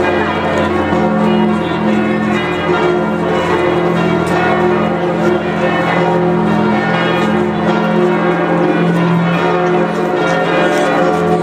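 Several large cathedral bells ringing together in a full peal, their tones overlapping and sustaining without a break.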